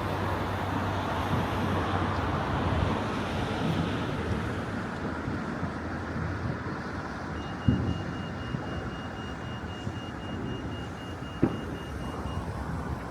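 Distant city night ambience: a steady traffic rumble, with two sharp distant bangs from fireworks, the first about eight seconds in. A high, rapidly pulsing beep sounds through the second half.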